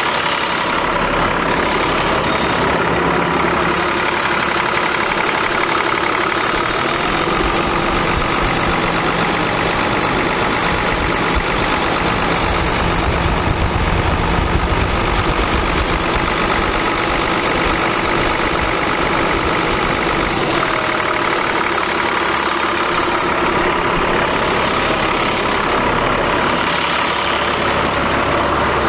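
Caterpillar C7 diesel engine of a Ford F750 truck idling steadily, its low rumble growing heavier for several seconds midway.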